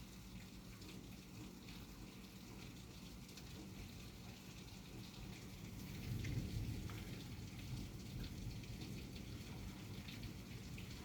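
Steady rain falling in a storm, with scattered drops ticking over a low rumble. The rumble swells louder about six seconds in.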